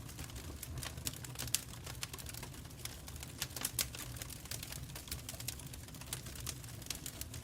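Wood fire crackling in a fireplace: many irregular sharp snaps and pops over a low, steady rumble.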